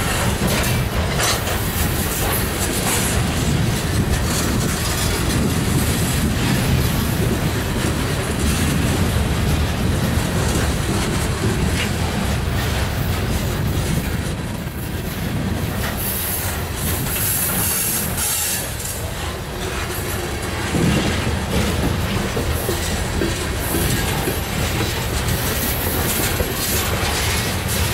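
Loaded coal hopper cars rolling past close by: a steady, heavy rumble of steel wheels on rail, with clacks as the wheels cross rail joints and a high-pitched wheel squeal at times.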